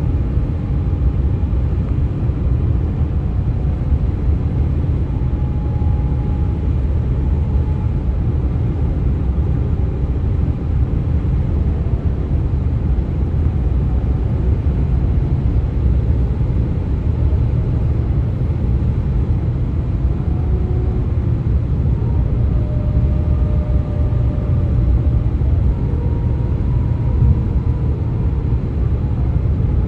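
Steady rumble of traffic on the US-127 highway. Faint, wavering tones at several pitches drift over the rumble now and then: the eerie 'ghost noises' the highway makes.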